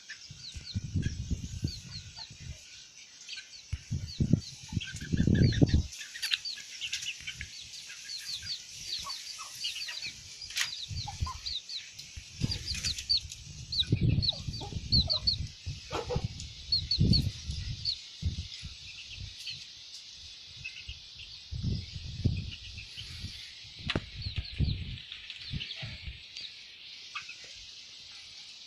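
Domestic chickens clucking, with many short, high peeps repeating throughout over a steady high hiss. Bursts of low rumbling and rustling come and go, loudest about four to six seconds in.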